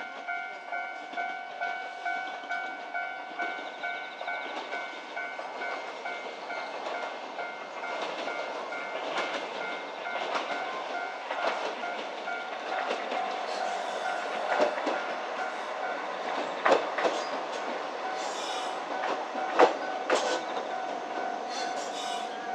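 A level-crossing warning bell dings about two and a half times a second. From about eight seconds in, a narrow-gauge (762 mm) train comes in along the track, its wheels clicking over the rail joints with a few sharp knocks, while the bell keeps ringing.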